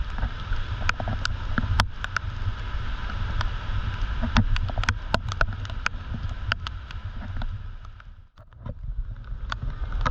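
Heavy typhoon rain: many irregular sharp taps of raindrops striking close by, over a steady low rumble and hiss. The sound drops away briefly about eight seconds in.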